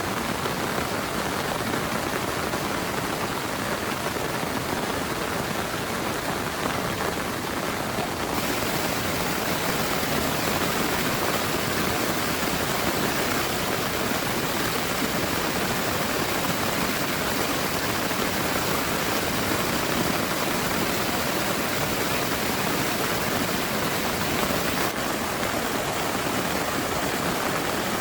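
Heavy rain pouring steadily, a dense even hiss with no pauses. The hiss turns abruptly brighter about eight seconds in and a little duller near the end.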